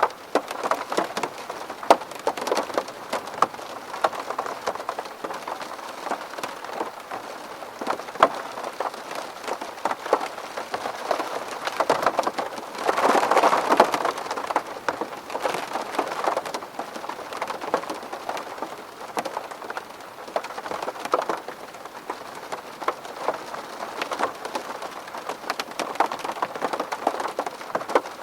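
Rain pattering on window glass, with many separate drops ticking sharply over a steady wash. About halfway through, a brief heavier burst of rain swells up and then eases.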